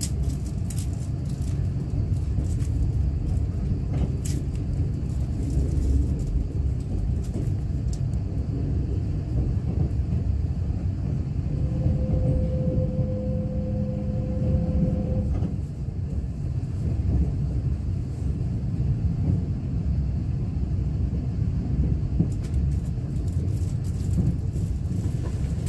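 Inside a Kintetsu limited express train running: a steady low rumble of the wheels on the rails. A faint steady tone sounds for a few seconds about halfway through.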